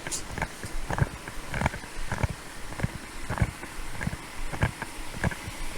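Footsteps of a person walking at an even pace on the roadway, a bit under two steps a second, picked up close by a body-worn camera's microphone.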